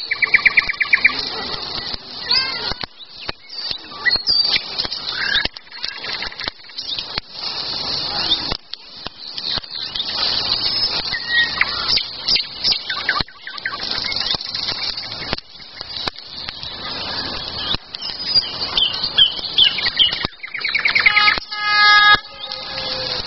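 Small songbirds chirping and singing in many short phrases and trills, with a fast trill near the end, over frequent short clicks and knocks.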